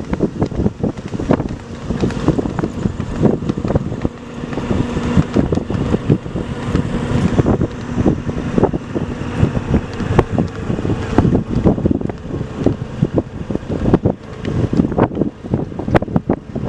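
Wind buffeting the microphone over a steady vehicle engine hum, with many irregular thumps throughout.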